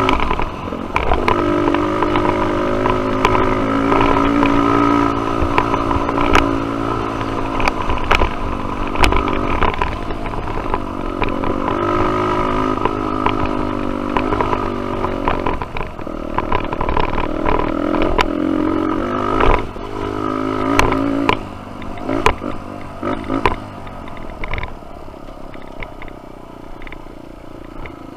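Dirt bike engine revving up and down as it is ridden along a trail, with sharp knocks and rattles from the bike over rough ground. The engine note drops away and stays quieter over the last few seconds.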